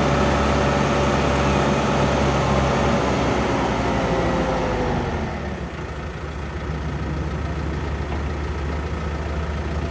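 Case IH Vestrum 130 tractor's diesel engine running above idle with a high whine. About halfway through, the whine sinks in pitch and fades as the engine slows, then it idles steadily at a lower level.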